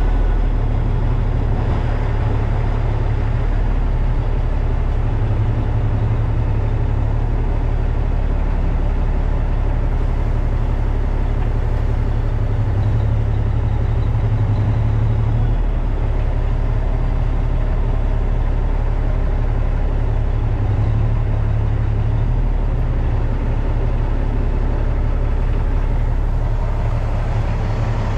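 Tractor-trailer's diesel engine running steadily at low revs while the truck maneuvers slowly.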